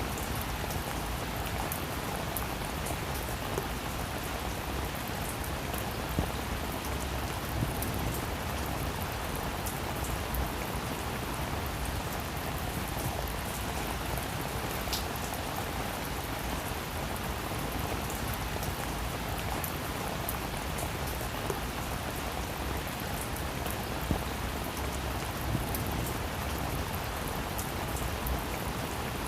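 Heavy rain falling steadily, a dense even hiss with scattered sharp drop impacts.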